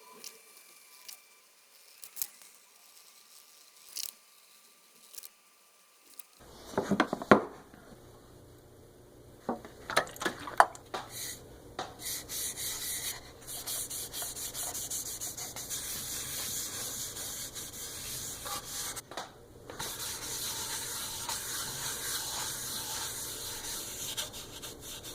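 Wood being sanded: a steady scratchy rubbing that breaks off briefly about two-thirds of the way through, after a cluster of wooden knocks and clicks.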